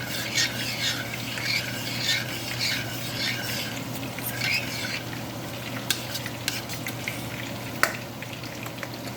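A utensil stirring and scraping in a pan, strokes about twice a second for the first five seconds, over the steady sizzle of chicken pieces frying in oil. A few light clicks of the utensil against the pan follow.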